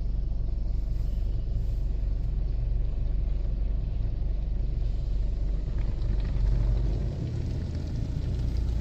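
Steady low rumble inside a car riding through an automatic tunnel car wash during the foam stage, with a faint even hiss of spray above it.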